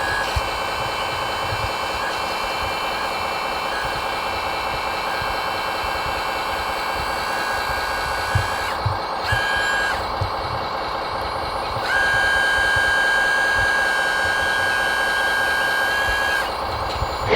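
Electric motors and hydraulic pumps of radio-controlled model trucks and construction machines running with a steady high whine. The whine cuts out and back in about halfway through, then runs louder for several seconds before dropping back near the end.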